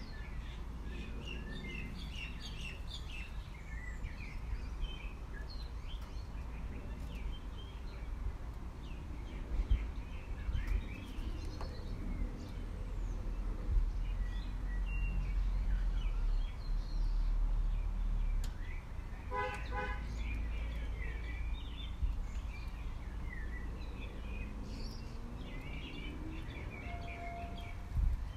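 Many small birds chirping and trilling over a steady low rumble, with a brief rapid run of notes about two-thirds of the way through.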